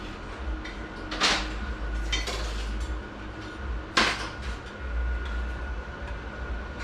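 Metal transmission parts clinking and knocking as they are handled in and around the transmission case, with two louder clanks, about a second in and at about four seconds, and lighter clicks between.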